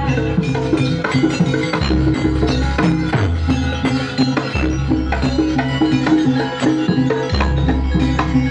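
Traditional Indonesian ensemble music played continuously: drums and struck percussion keep a busy rhythm under sustained pitched tones.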